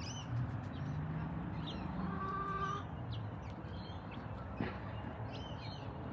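Chicks peeping in scattered short, high, falling chirps, with a hen giving a brief call about two seconds in.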